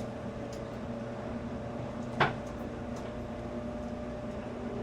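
Steady hum of an electric train's passenger cabin, with one sharp knock about two seconds in.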